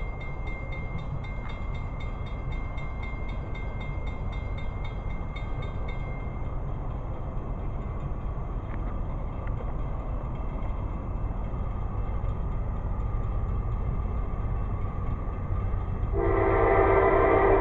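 Train approaching with a low, steady rumble that slowly builds; near the end a locomotive air horn sounds a multi-note chord, held for over a second.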